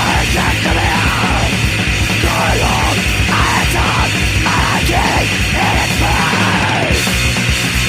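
Crust punk demo recording: fast, distorted guitars and pounding drums under shouted vocals.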